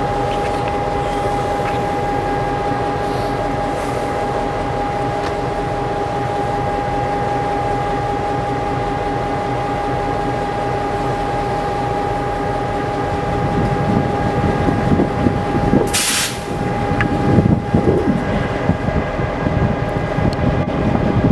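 CN work train with an EMD GP38 diesel locomotive running by, a steady engine drone with a high steady tone over it. A rougher low rumble builds about two-thirds of the way in, with a short hiss about three-quarters of the way through.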